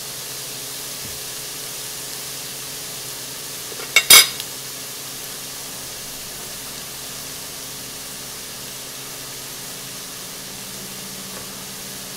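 Shrimp and shallots sizzling steadily in oil in a pot, a constant even hiss. About four seconds in comes a brief, sharp clatter, the loudest sound.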